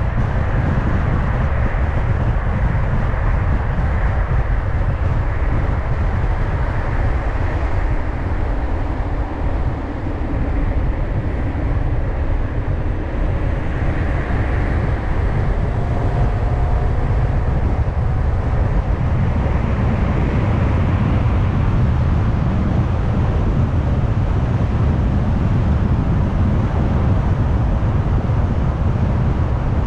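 Car being driven: steady road noise from the tyres and engine, heaviest in the low end.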